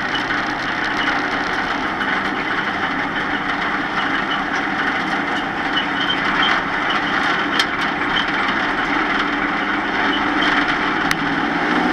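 Stock-car Pro Truck's engine running steadily at an even pitch, heard from inside the cab, with a few light clicks.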